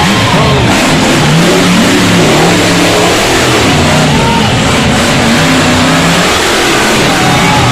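Monster truck engine revving loudly, its pitch rising and falling again and again.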